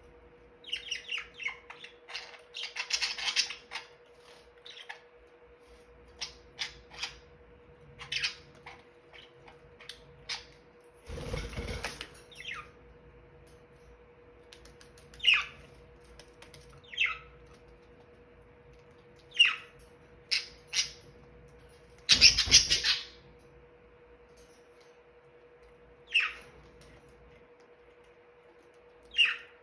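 Pet budgerigars chirping and calling in short, scattered notes, some in quick runs, with two brief bursts of rustling noise about a third and three-quarters of the way through. A faint steady hum lies underneath.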